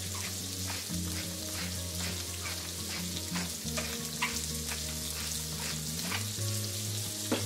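Sliced green and red peppers frying in oil in a wok: a steady sizzling hiss with scattered faint crackles.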